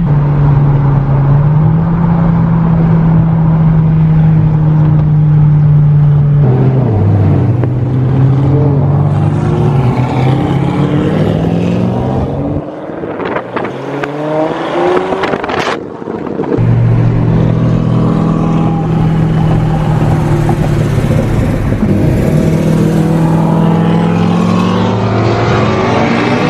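Car engine running under way, a steady drone that changes pitch and rises as it accelerates in places. Midway it drops off for a few seconds, with one sharp click, then picks back up.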